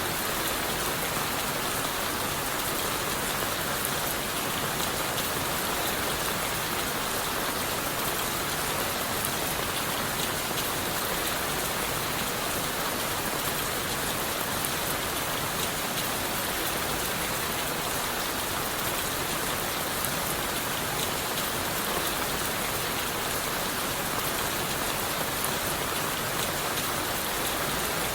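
Steady rain falling on forest leaves and a wooden shelter: an even hiss with a fine patter of individual drops, unchanging throughout.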